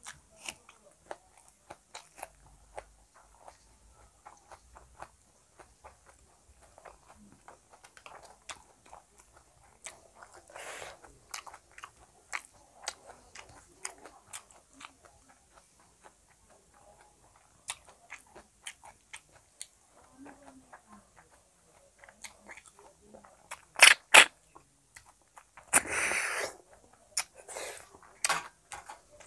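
Close-miked chewing of a mouthful of rice and fish, with many small wet mouth clicks. There are a couple of louder sharp clicks and a louder noisy burst near the end.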